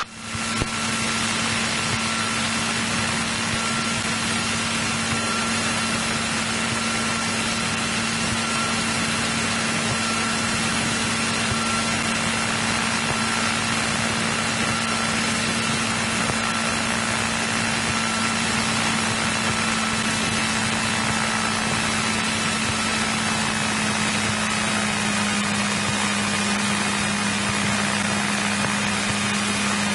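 A 1963 Cessna 172E's Continental O-300-D six-cylinder engine running steadily at low ground power, a constant drone with a thin high whine above it. The pitch drops slightly about two-thirds of the way through.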